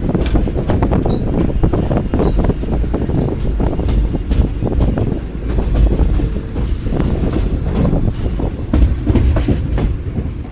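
Train running on the track: a steady low rumble of the wheels with irregular clicking and clattering as they pass over rail joints.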